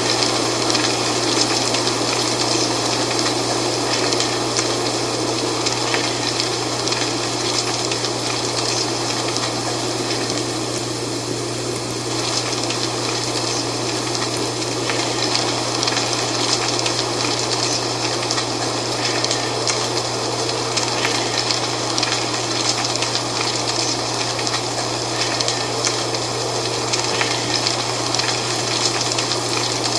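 Wind blowing through dry autumn leaves: a steady rushing with a continual fine crackle of rustling leaves. It dips slightly around the middle, over a steady low hum.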